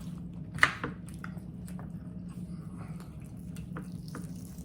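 Close-up eating sounds of pork ribs being chewed: wet chewing and lip smacks with scattered small clicks, and one sharp click a little over half a second in.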